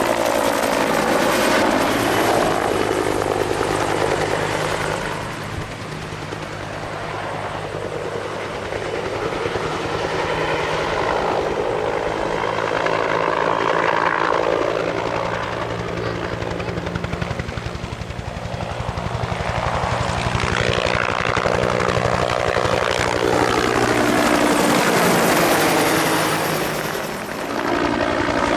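Two-bladed Bell military helicopter in low manoeuvring flight, its rotor and turbine noise swelling and fading several times as it passes and turns.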